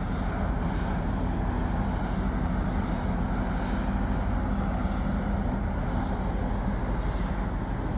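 Steady low engine drone of a boat, with a faint even hum under a constant wash of wind and water noise.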